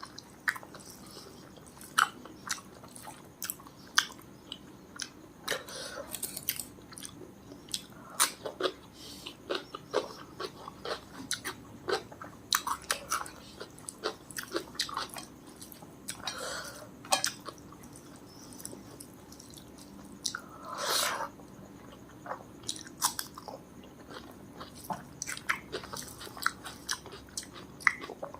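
Close-miked chewing of a rice-and-curry meal: wet, irregular mouth clicks and smacks, with one longer, louder bite or slurp about two-thirds of the way through.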